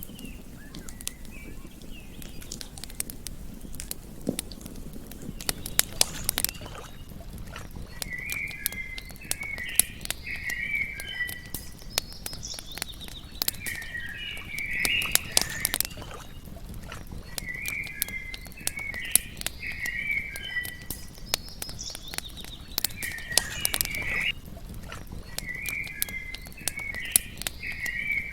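Campfire crackling with frequent sharp pops over a low steady rumble. From about eight seconds in, a short chirping animal call repeats every two to three seconds.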